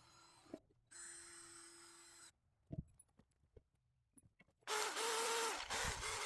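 Electric drill spinning a wire wheel brush: a short run, a few light clicks, then from near the end a loud steady whirring scrub as the wire bristles strip corrosion and oxidized finish from an aluminum wheel.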